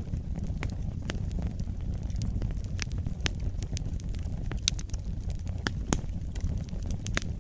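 Wood fire burning in a fireplace: a steady low rumble of the flames with irregular sharp crackles and pops, several louder pops in the second half.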